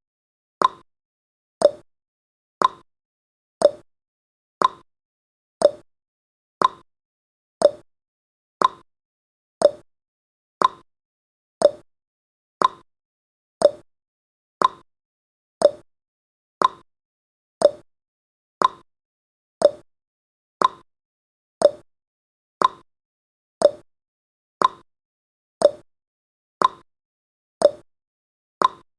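Clock-ticking sound effect of a countdown timer: short, sharp ticks at a steady rate of one per second, counting off the seconds.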